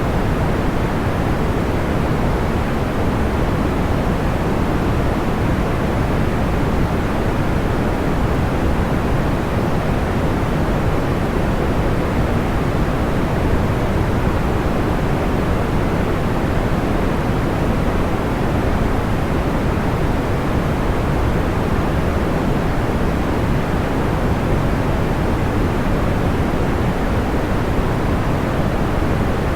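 Steady, unchanging noise, heavier in the low end and soft in the highs, like a pink or brown noise track made for sleep; no separate crackles or pops stand out.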